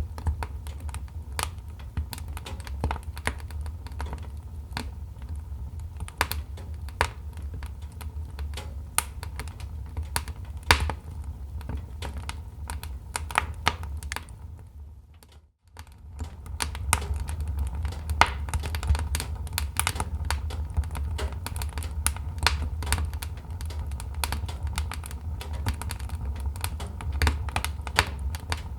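Wood fire crackling: irregular sharp pops and snaps over a steady low rumble. About halfway through the sound fades out briefly to near silence, then returns.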